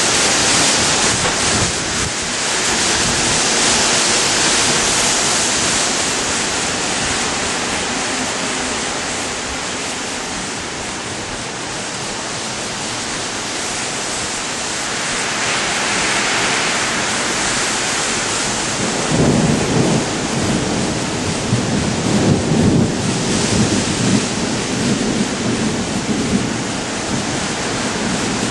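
Heavy rain pouring down in a storm, a steady loud hiss. About two-thirds of the way through, a low uneven rumble joins it.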